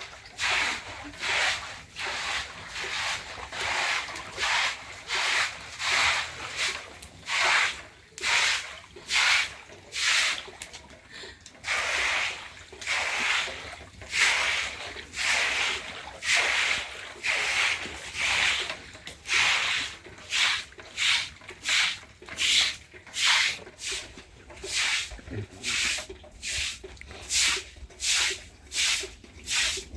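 A steady rhythm of rough scraping or rubbing strokes, about one to two a second, by hand.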